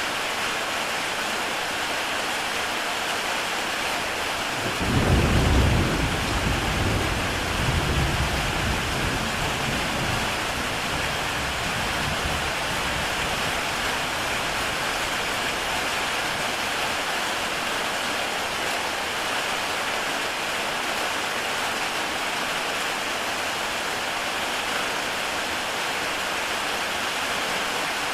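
Heavy rain falling steadily on a tile roof, a dense even hiss. A roll of thunder comes in about five seconds in, swells again a few seconds later, and rumbles away by about twelve seconds.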